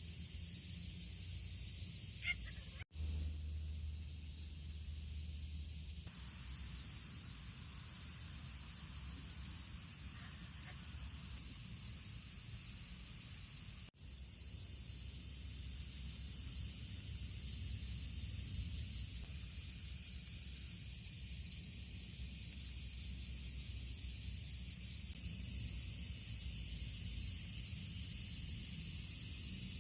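Steady high-pitched chorus of insects, broken by two brief dropouts, about three seconds in and again near the middle.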